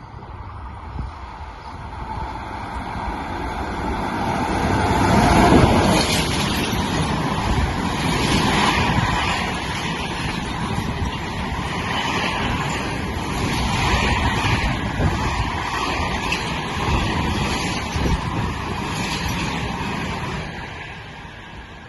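A train passing through a railway station: the sound builds as it approaches and is loudest about five seconds in, then the carriages run past with a steady rumble and repeated clatters for about fifteen seconds before fading near the end.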